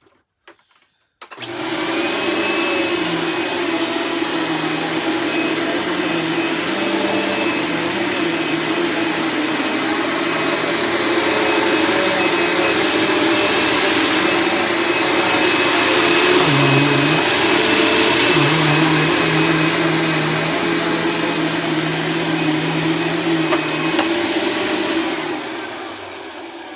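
Dirt Devil Ultra Vision Turbo upright vacuum cleaner switched on about a second in. It runs steadily and loudly with a motor hum and a high whine. Near the end it is switched off and winds down.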